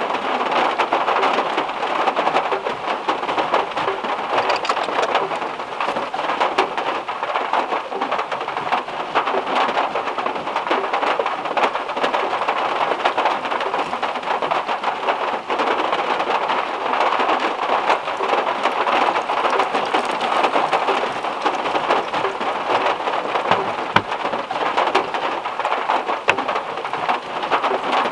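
Heavy rain falling on the metal roof of a VW Beetle, heard from inside the car as a steady, dense patter of drops. Near the end there is one short knock.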